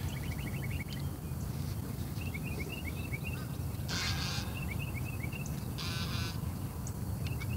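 Birds chirping in runs of short quick notes over a steady low rumble. Two short harsh calls come about four and six seconds in.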